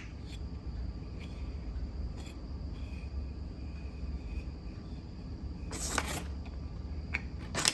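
Small metal parts of a rod balancing tool being handled and fitted together: a few sharp clicks and light knocks, the loudest pair about six seconds in and another near the end, over a steady low hum and a faint high steady whine.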